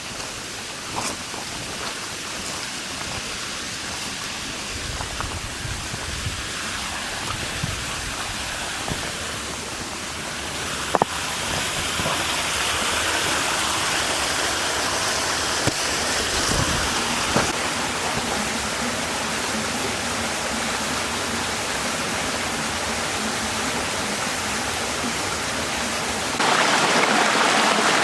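Small stream running steadily, with a few light knocks about a second in, around eleven seconds in, and twice more in the middle. Near the end the water becomes suddenly louder and brighter.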